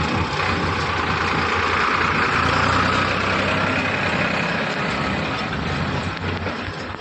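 Diesel engine of a JCB 3DX backhoe loader running while it loads soil. The engine note swells about two to three seconds in and eases off toward the end.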